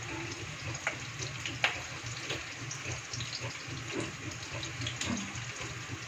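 Food frying in oil in a pan: a steady sizzle with scattered small crackles.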